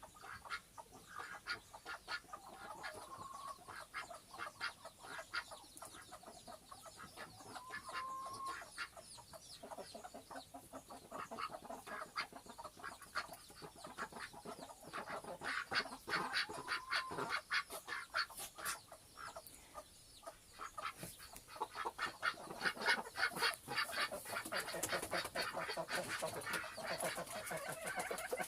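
Cochin chickens clucking, with a few short pitched calls about 3, 8 and 16 seconds in. Quick clicky sounds come thicker and louder in the last third.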